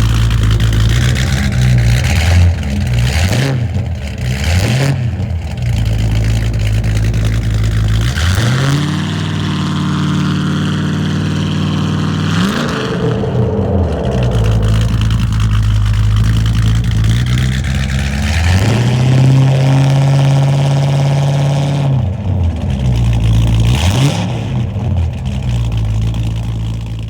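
A 1964 Chrysler Imperial's 413 V8 runs through an open 3-inch stainless dual exhaust with an X-pipe and no mufflers. It idles and is revved again and again: several quick blips near the start, then a few longer revs that climb and fall back.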